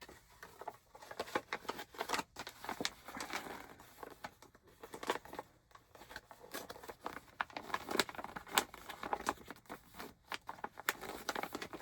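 Yarn skeins being handled and packed onto a shelf: continuous irregular rustling and crinkling with many small taps and clicks.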